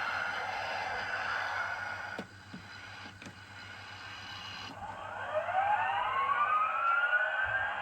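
Electronic sound effects from a Mickey Mouse ride-on toy airplane: a buzzing effect that cuts off about two seconds in, a few clicks, then a siren-like whine that rises steadily from about five seconds in.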